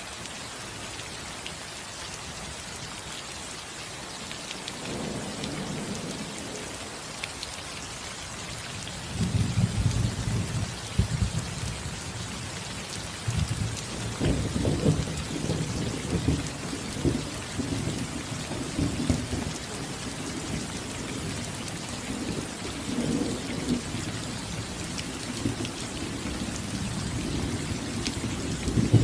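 Steady rain falling on a roof, with thunder: a faint low rumble about five seconds in, then loud thunder breaking about nine seconds in and rolling on in repeated waves of rumbling.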